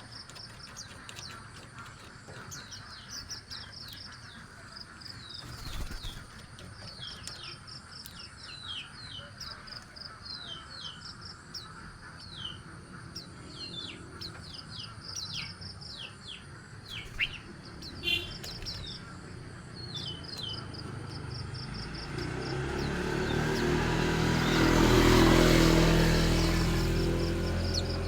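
Small birds chirping repeatedly, many short, quick, falling chirps, with a few louder sharp notes around the middle. In the last few seconds a low humming rumble swells up, becomes the loudest sound, then eases off.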